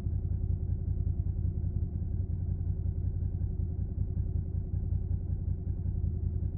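Suzuki SV650's 90-degree V-twin engine running through a Yoshimura Alpha carbon exhaust, holding a steady, low-pitched note with no revving.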